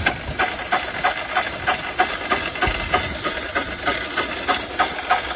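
Electric starter cranking a 1999 Polaris 455 single-cylinder diesel with no glow plugs, an even beat of about three compression strokes a second, turning over without catching. A cold start that fails to fire, on batteries the owner calls weak.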